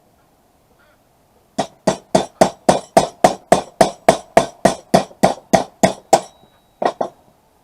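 A hammer striking metal in a fast, even run of about eighteen sharp, ringing blows, roughly three to four a second, then a short pause and two more blows.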